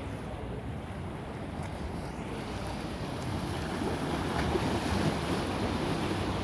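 Sea waves washing in, with wind blowing on the microphone. The wash swells a little about four seconds in.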